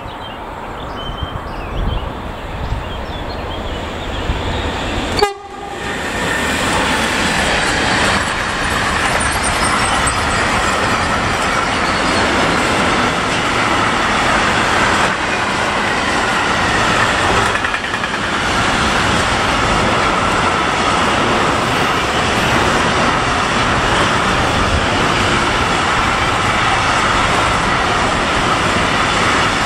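Freight train of container and trailer wagons approaching and passing close by: the rumble builds over the first five seconds, then from about six seconds in the wagons' steady rolling noise is loud, with a faint ringing from the wheels.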